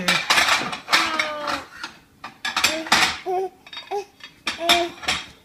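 Dishes and cutlery clattering and rattling in a dishwasher rack as a baby handles them, in repeated short bursts. Several brief high vocal sounds come near the end.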